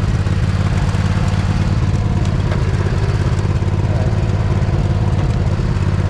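Poulan riding mower engine running steadily at an even speed.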